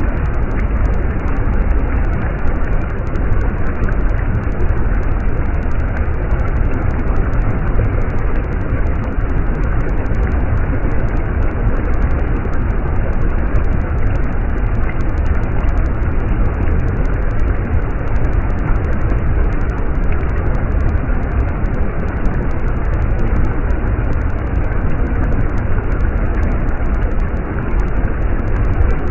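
Stream water running, a steady rush with a strong low rumble.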